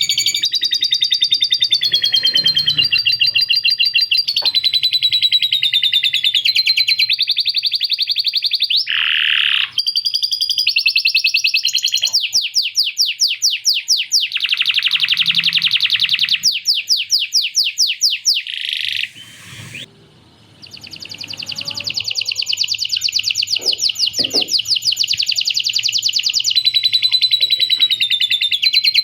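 Male canary singing long, rapid rolls and trills of fast repeated high notes, its song filled with lovebird chattering (ngekek) phrases learned from a lovebird, with a short break about two-thirds of the way through.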